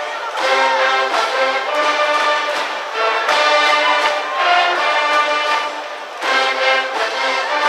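School brass band playing a baseball cheering tune in repeated short phrases, with brief breaks about three and six seconds in.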